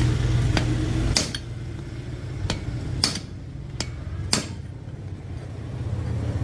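Sharp taps on metal, five or six of them spaced about a second apart, as parts of an old rice cooker are worked on by hand. A low machine hum cuts off about a second in and comes back near the end.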